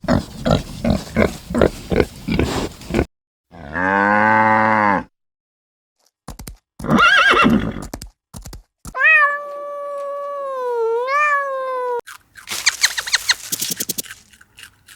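A series of different animal calls, one after another with short gaps: a rapid pulsed call, several separate pitched calls, one long steady call that dips and rises again near its end, then another rapid pulsed call.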